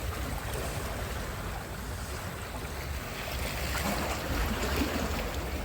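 Sea surf washing onto the shore in a steady rush that swells again about four seconds in, with wind rumbling on the microphone.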